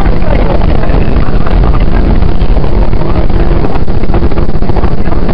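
Cabin noise of a 115-series electric train running at speed: a loud, steady rumble of wheels on rail and running gear, with a faint steady hum coming in about three seconds in.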